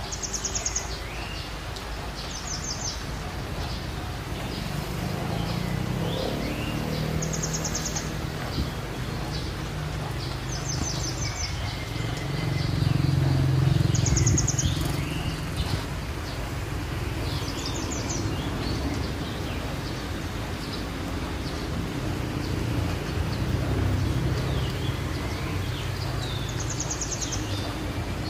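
A bird's short, high, rapid trill repeated about seven times, every few seconds, over a steady low rumble that swells about halfway through and again near the end.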